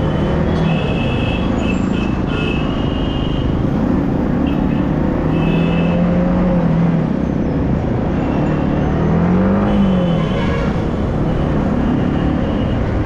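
Yamaha R15 motorcycle riding in traffic: a steady rush of wind and road noise over the engine, whose note holds steady, then rises and falls about ten seconds in. Short high-pitched tones come and go over the top.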